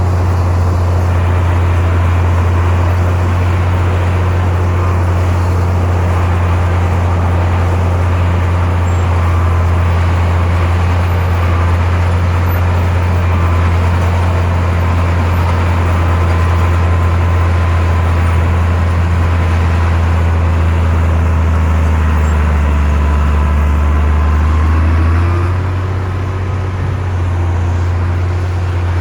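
Heavy diesel engine of earthmoving equipment running steadily with a deep, even drone. It drops off briefly about 25 seconds in, then picks up again.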